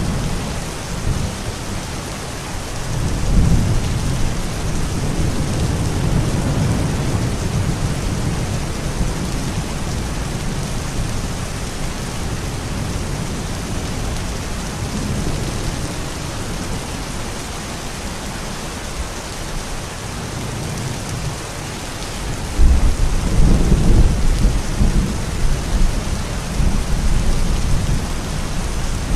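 Steady rain with rolling thunder: a low rumble swells a few seconds in, and a louder, longer rumble comes in about two-thirds of the way through.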